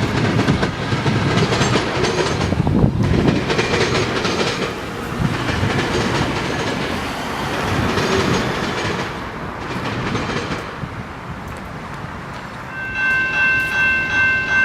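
A train passing close by, with loud wheel-on-rail rumble and clatter. Near the end the locomotive's air horn starts sounding a steady chord.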